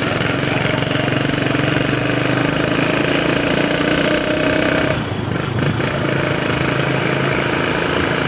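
Motor vehicle engine running steadily, its pitch shifting slightly about five seconds in.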